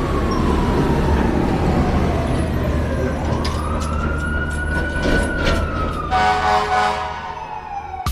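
Fire truck siren wailing, the pitch falling, rising and falling again slowly, over a low engine rumble. A chord-like tone joins about six seconds in.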